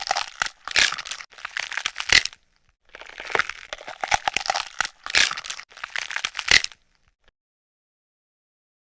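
Crackling, crunching noise coming in a run of short bursts, stopping about two seconds before the end.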